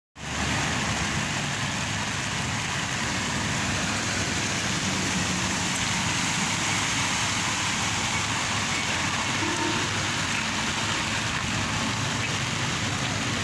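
Steady rain pouring onto grass, puddles and a wet road, with a low, steady rumble beneath it.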